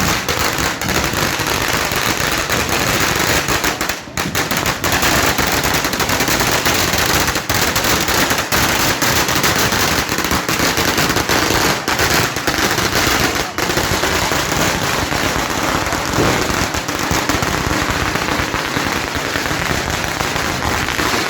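A long, unbroken barrage of firecrackers, rapid sharp cracks and pops running densely together.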